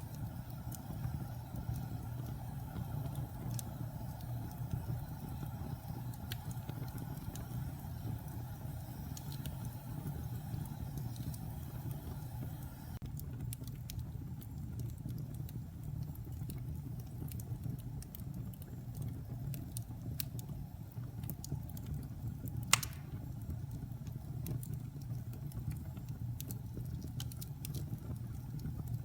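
Wood fire burning in a fireplace: a steady low rumble of the flames with scattered crackles of burning logs, and one sharp, louder pop about three-quarters of the way through.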